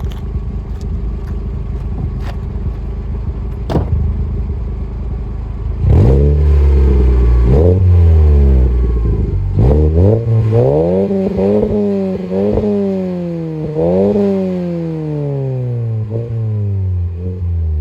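Volkswagen Golf engine idling through a newly fitted exhaust and catalytic converter, with a single click about four seconds in. About six seconds in the engine is revved, then blipped several more times, each rev dropping slowly back toward idle with a low rumble.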